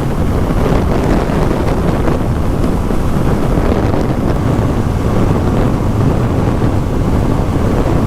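Steady wind rushing over a motorcycle rider's camera microphone at road speed, with motorcycle and road noise underneath.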